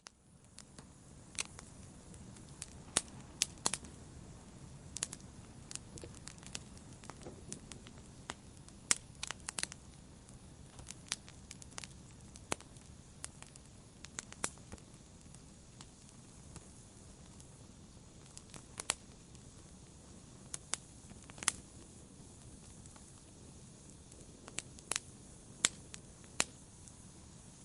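Wood bonfire burning, with sharp irregular crackles and pops from the burning wood over a low, steady rumble of the flames.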